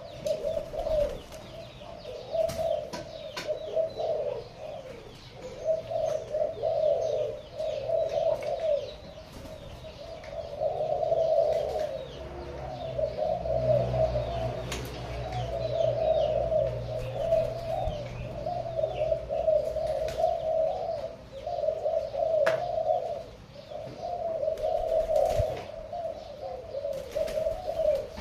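Pigeons cooing almost without pause, overlapping rolling coos with brief breaks, with faint higher chirps above them.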